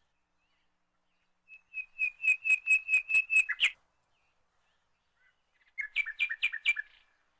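A songbird singing: a fast run of evenly repeated high chirps lasting about two seconds, then, after a pause, a shorter phrase of about five two-toned chirps near the end.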